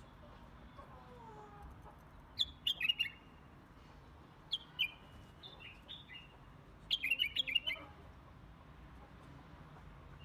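Small birds chirping in three short bursts of quick, high chirps, the longest about seven seconds in.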